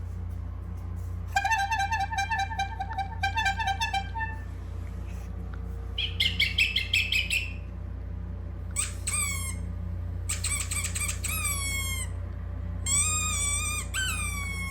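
Funny sound effects played back over a steady low hum: first a fast warbling trill, then a short burst of high squeaks, then a run of short squeaks that each fall in pitch.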